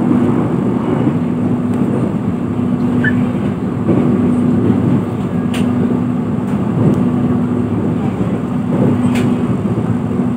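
Sawunggalih passenger train running at speed, heard from inside the carriage: a steady rumble of wheels on rail under a constant low hum, with a couple of short sharp clicks.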